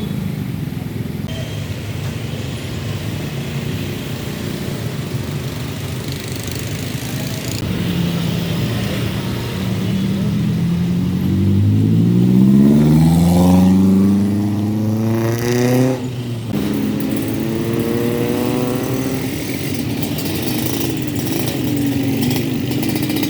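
Road traffic: vehicle engines running, with one engine note rising as a vehicle accelerates about halfway through, then running steadily again.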